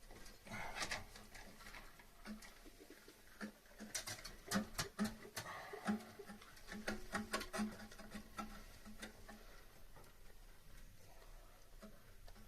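Scattered light clicks and knocks of hand work, thickest around the middle of the stretch, over a faint low hum.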